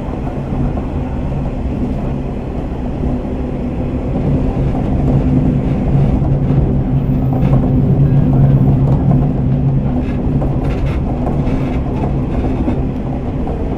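Interior running sound of a JR KiHa 47 diesel railcar: the diesel engine drones steadily with a low hum that swells for a few seconds midway, under the rumble of the wheels on the track, with a few clicks from the rails in the second half. Muffled, as heard from a phone in a pocket.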